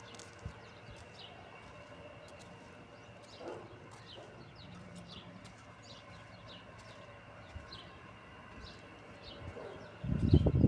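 Faint, repeated short high chirps, like small birds, over a low steady hum. Louder knocking and clatter start near the end.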